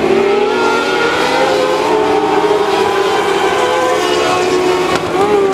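Several small-engine mini sprint race cars running hard on a dirt oval, their engine notes overlapping and wavering in pitch as they rev through the turns.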